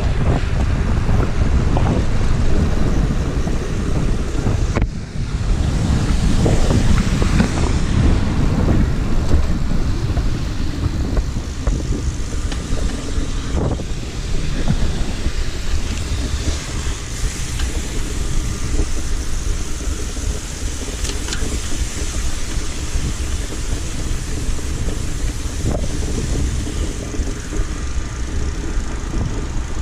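Wind buffeting the camera microphone as the bicycle moves at speed, a steady low rumble with a brief dip about five seconds in.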